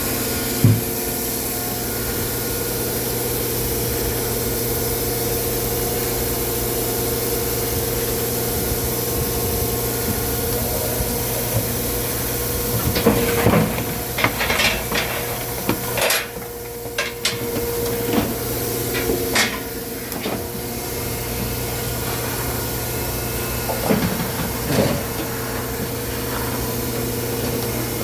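Firewood-processing machinery running with a steady hum. From about halfway through, pieces of wood clatter and knock in several clusters.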